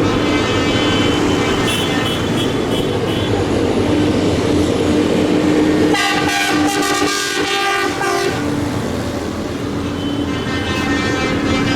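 Passing tractors with a loud air horn sounding over the running diesel engines; a second, higher multi-tone horn blast comes in about six seconds in and lasts some two seconds.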